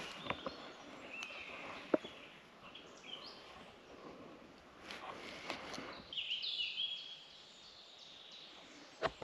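Small birds chirping and singing in woodland, with a burst of quick notes about six seconds in. Scattered snaps and crunches of footsteps on the forest floor come through now and then.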